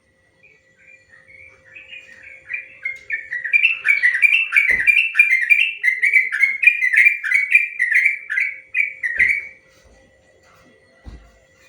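Yellow-vented bulbul (trucukan) singing a long, fast run of short whistled notes, about three a second, each rising then falling. The run builds in loudness over the first few seconds and stops about nine and a half seconds in.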